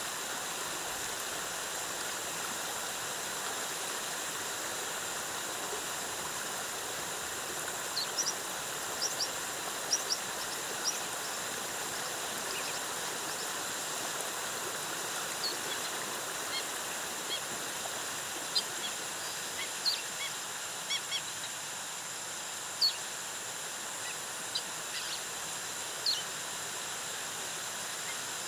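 Steady rush of a jungle waterfall. From about a third of the way in, short high bird chirps come in scattered clusters.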